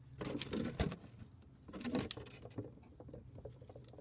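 Hand tools clicking and knocking against metal as the transmission drain bolt is worked loose: two short flurries of clicks, one sharp knock just under a second in, then scattered lighter ticks.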